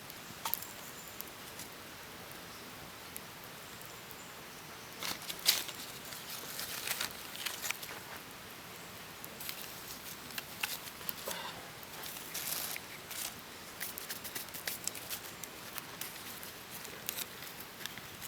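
Irregular soft rustling and scattered small clicks and taps over a steady faint hiss, sparse for the first few seconds and busier from about five seconds in.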